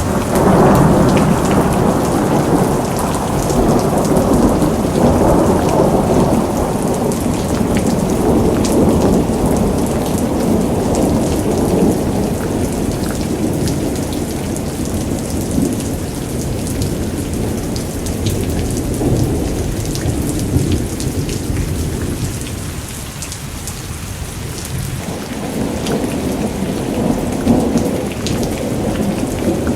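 Heavy rain falling steadily, with a deep rolling rumble of thunder beneath it that swells and fades in long waves. It eases a little past two-thirds of the way through, then builds again near the end.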